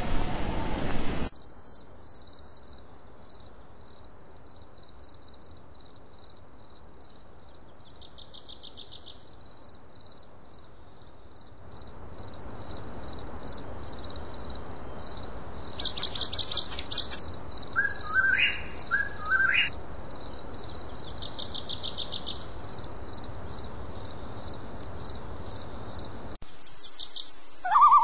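Birds chirping: a high chirp repeats steadily about two to three times a second, with short trills now and then and two rising calls past the middle. A rushing noise cuts off about a second in, and the sound changes abruptly near the end.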